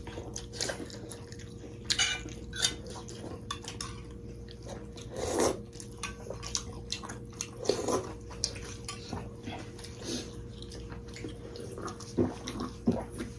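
Eating at a table: spoons and dishes clinking in scattered sharp taps, with chewing of beef momo and soup in between, over a steady faint hum.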